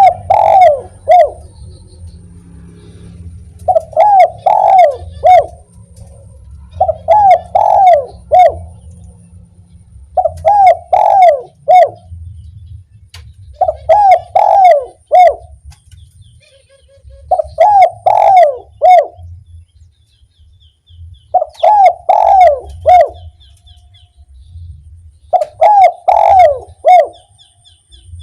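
Spotted dove (derkuku) cooing, a repeated phrase of several coos with one short separate "kuk" note at the end, the kuk-1 song type. Eight phrases come at steady intervals of about three and a half seconds.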